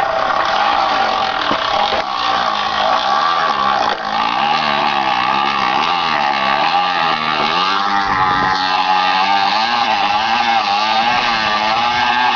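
Beer can clipped against a bicycle's front-wheel spokes, buzzing like a small motorbike engine as the bike is ridden. Its pitch swells and dips about once a second with the pedalling.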